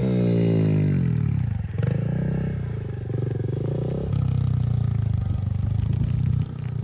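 Small pit bike's single-cylinder engine on a dirt track, falling in pitch as the rider backs off, then picking up again about two seconds in and running hard on choppy throttle, easing off near the end.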